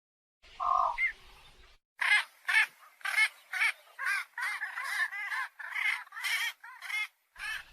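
A bird giving one call about half a second in, then a quick run of short harsh calls, about two a second, from about two seconds in.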